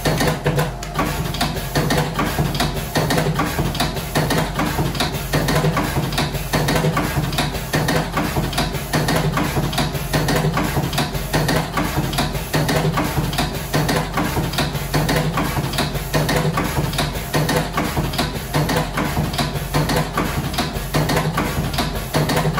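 Electric slim-cigarette rolling machine running: a steady motor hum under a regular, repeating clacking of its mechanism.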